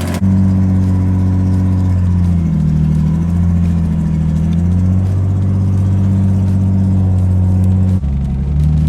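Nissan 240SX (S14) engine running loud just after a cold start as the car is moved, its exhaust leaking. The engine note drops briefly a few seconds in and changes again near the end.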